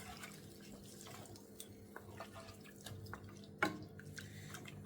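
Curry chicken cooking in a covered pot after a splash of water: faint scattered pops and ticks over a low steady hum, with one sharper click about three and a half seconds in.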